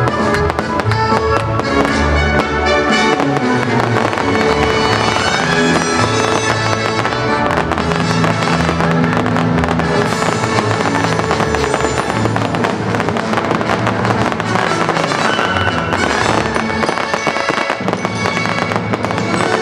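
Fireworks bursting and crackling in quick succession over loud music with sustained melodic lines.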